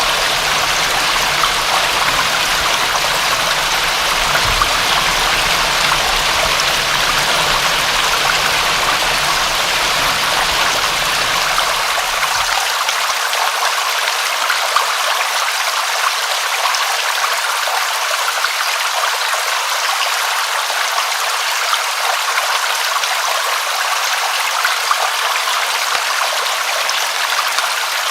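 Steady rain, an even hiss of falling water with no pauses. About twelve seconds in, the low rumble underneath drops out, leaving only the higher hiss.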